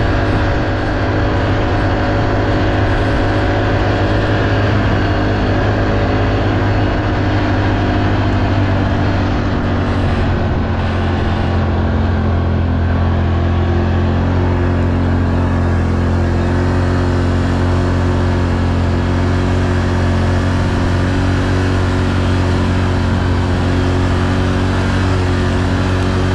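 ATV engine running steadily while riding, its pitch shifting slightly now and then.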